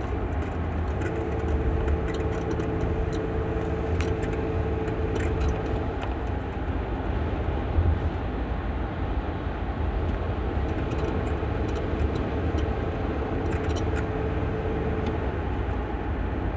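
Cabin of a 2007 Kia Sedona minivan under way, with a low road and engine rumble, and an electrical-sounding whine that holds one pitch. The whine sounds twice, for about five seconds each time, from about one second in and again from about ten seconds in. The owner takes it for an electrical module under the dash, heard only when the gas pedal is pressed and never when coasting.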